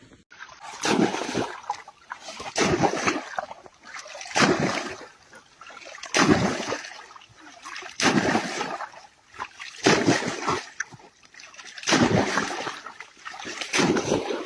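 Water splashing in repeated bursts, about one every two seconds.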